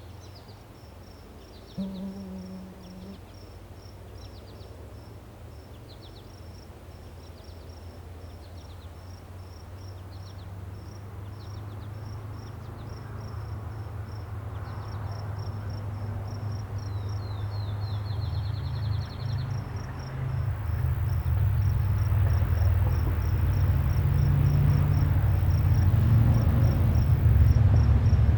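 An insect chirps in a steady, even rhythm of high pulses, with a few short bird trills over it, one fast trill about two-thirds of the way through. Meanwhile a low rumble grows steadily louder through the second half.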